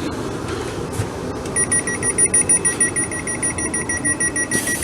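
Class 450 Desiro train's electronic door warning beeper sounding a rapid, even series of high beeps that starts about a second and a half in, over the low steady hum of the train.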